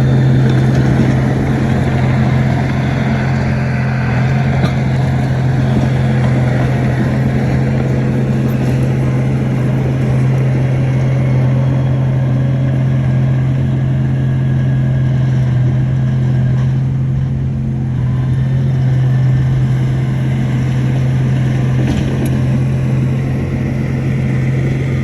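Shantui bulldozer's diesel engine running steadily at a constant speed, a loud, even low drone.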